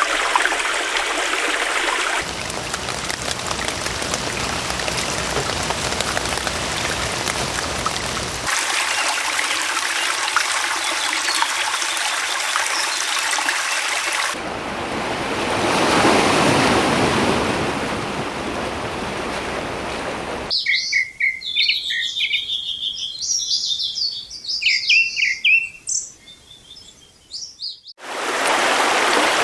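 A run of nature recordings joined by abrupt cuts: steady rushing or flowing water for most of the first two-thirds, swelling once about sixteen seconds in, then several seconds of birds chirping on their own over near-quiet, and flowing water again near the end.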